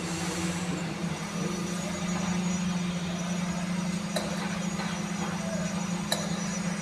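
Train running: a steady low drone over a constant wash of rumbling noise, with two sharp clicks about four and six seconds in.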